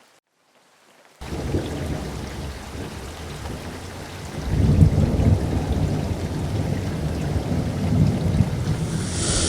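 Sea waves breaking and washing, a loud noisy surge heavy in the low end that starts abruptly after about a second of silence and swells twice. A short hiss comes near the end before it falls away.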